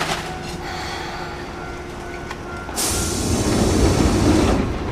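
Enshu Railway electric train rolling slowly to a stop at the platform, then a sudden loud hiss of compressed air from its pneumatics about three seconds in, lasting to the end.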